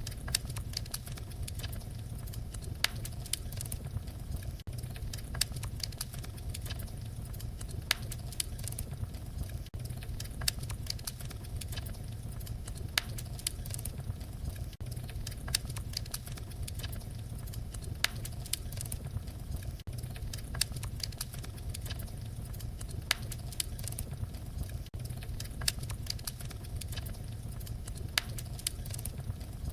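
Fire crackling: a steady low rumble of flames with frequent sharp pops and snaps scattered irregularly throughout.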